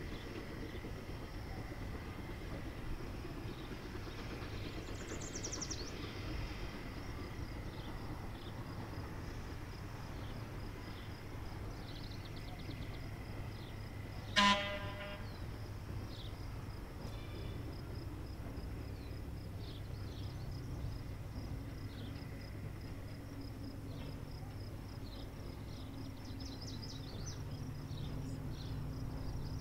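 Steam locomotive whistle giving one short toot about halfway through, the loudest sound, over a steady low rumble with insects chirping.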